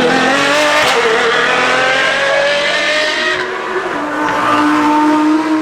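A high-performance car engine revving hard under full acceleration, its pitch climbing steadily. About three and a half seconds in the sound breaks off, as at a gear change, then it pulls again at a lower pitch that creeps up.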